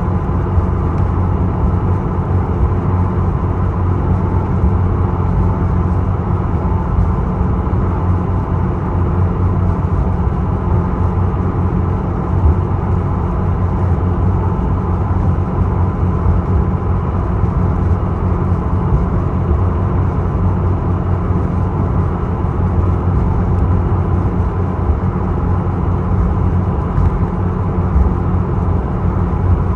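Engine of the small ferry Isokaze running steadily under way, a constant low drone with a steady hum over it, heard aboard.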